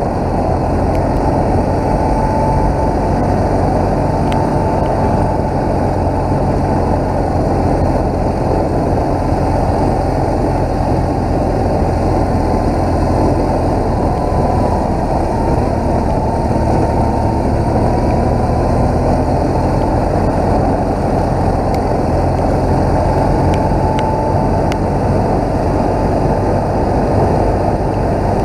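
BMW R1200GS flat-twin boxer engine running steadily while riding, mixed with wind and road noise.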